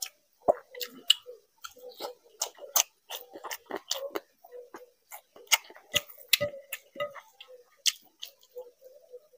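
Close-miked eating sounds of rice and fish curry eaten by hand: chewing with irregular wet smacking clicks of the mouth, a few every second.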